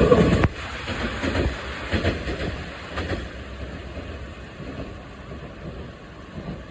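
Train passing over a level crossing: the loud passing sound drops away about half a second in. Its wheels then keep clicking over the rail joints as it moves off and fades.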